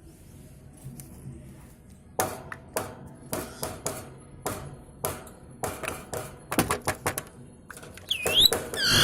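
Irregular sharp clicks and taps, starting about two seconds in and coming faster, then near the end a parrot's short chirps.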